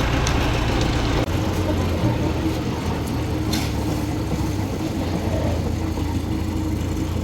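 A heavy engine running steadily with a low, even hum; its lowest note shifts about a second in.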